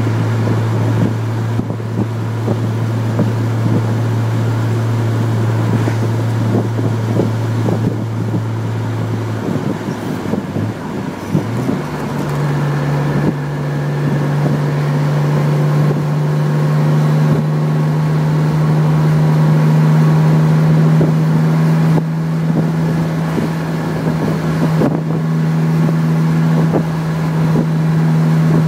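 Chevrolet Corvair's air-cooled flat-six engine running while driving, heard from inside the car as a steady drone. About ten seconds in the drone breaks off briefly, then returns at a higher pitch that climbs slowly.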